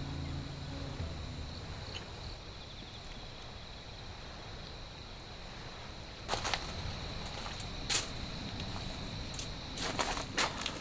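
A few sharp clicks and rustles, about six, eight and ten seconds in, over a steady low rumble and a faint high whine.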